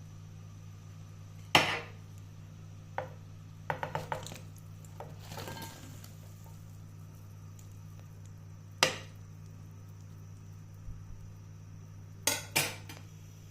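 Kitchen utensils clinking and knocking against dishes and pans: a scatter of sharp clinks, with a quick run of four a few seconds in and a pair near the end, over a steady low hum.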